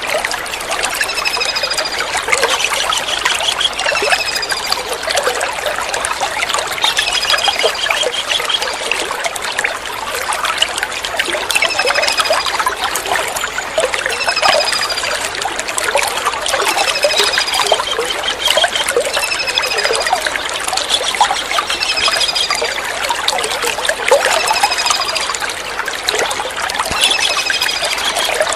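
Kingfisher calling: short high falling calls about one every two seconds, with a rapid trill now and then, over steady trickling water.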